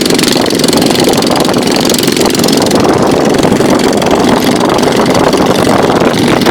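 A boat's engine running steadily and loudly under way.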